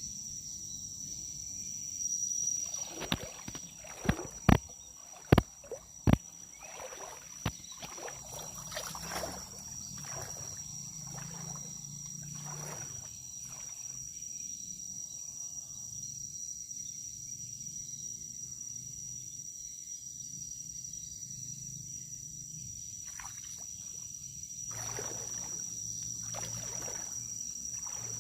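A steady high-pitched insect trill runs throughout. From about two seconds in come water splashes and several sharp knocks, five of them loudest between four and seven seconds in, and more splashing follows near the end.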